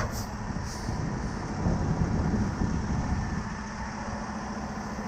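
Heavy truck engine idling with a steady low rumble, with two brief light metallic clinks in the first second as tow chains are handled.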